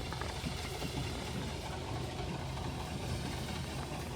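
Bus engine running steadily, heard from inside the passenger cabin as a constant low hum.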